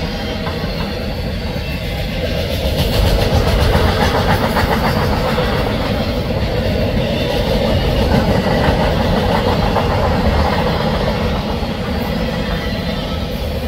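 Empty autorack freight cars rolling past: a steady rumble of steel wheels on the rails with clickety-clack, getting a little louder about three seconds in.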